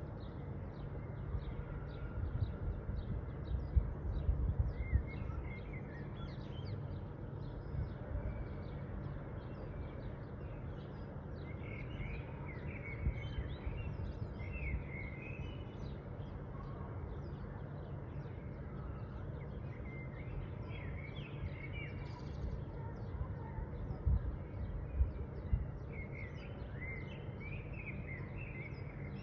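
Several small birds chirping and calling in quick short notes, over a steady low rumble, with a few dull low bumps about four seconds in and again near the end.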